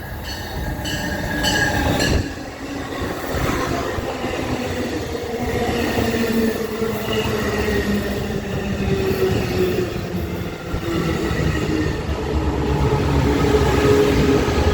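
Passenger train running through the station at speed without stopping: a continuous rumble and rush of wheels on rail with some steady tones over it, growing louder near the end. A quick run of wheel clicks sounds in the first couple of seconds.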